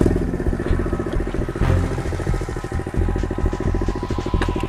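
Pit bike's small single-cylinder engine running steadily at low revs, with a couple of faint clicks.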